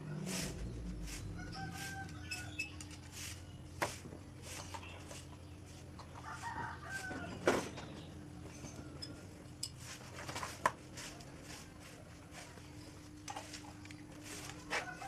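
Chickens calling in short pitched calls a few times, over a steady low hum, with scattered sharp clicks and taps.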